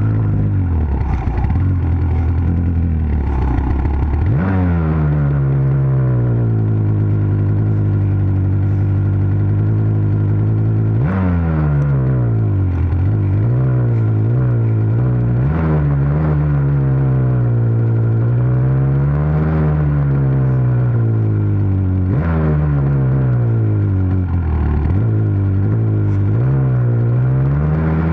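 A dirt bike engine running hard, its revs rising and falling continuously as the throttle is worked. The revs climb sharply three times, about 4, 11 and 22 seconds in.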